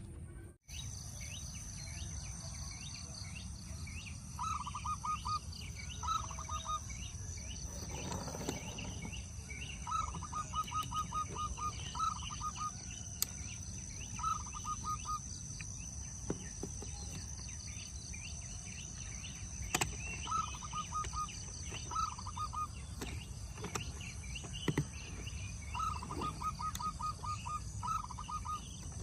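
Outdoor ambience: a bird repeatedly calls in short runs of rapid pips, over a steady high thin buzz and a low rumble, with a few scattered clicks.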